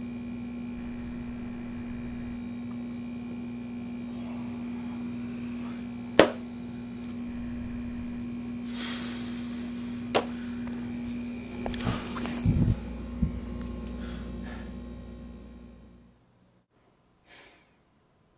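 Steady electrical hum with a buzzing edge and a few sharp clicks and clattering knocks over it, cutting off suddenly about sixteen seconds in.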